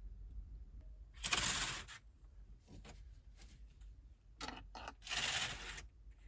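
Two brief crinkling rustles, one about a second in and one about five seconds in, with a few light clicks and taps between them, as food and its wrapping are handled by hand.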